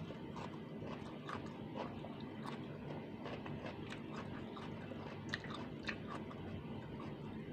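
Close-up eating sounds: a person chewing fried fish and stir-fried water spinach eaten by hand, with frequent small mouth clicks over a faint steady hum.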